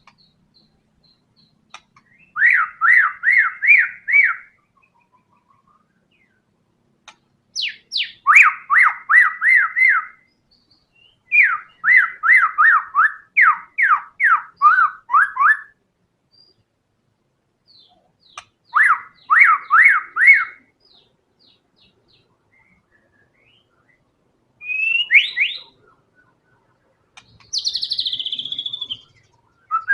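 White-rumped shama singing in runs of fast repeated notes, four long runs separated by short pauses, then a short rising phrase and a higher falling whistle near the end.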